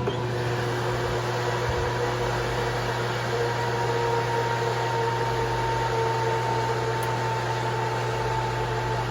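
Microwave oven running with a steady electrical hum and fan noise; it stops suddenly near the end.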